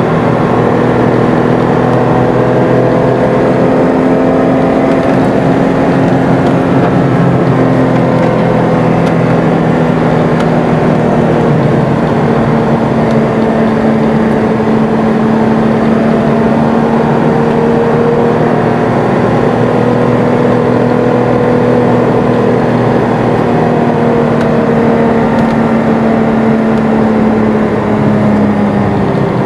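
Porsche GT3 RS's flat-six engine heard from inside the cabin while lapping a race circuit, its note holding fairly steady with slow drifts in pitch.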